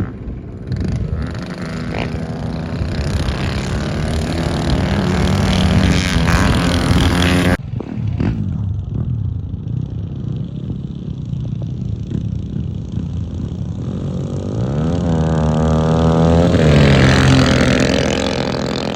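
Mini bike engines revving and accelerating on a dirt track, the pitch climbing over several seconds. The sound breaks off sharply about seven and a half seconds in, then another rev climbs again near the end.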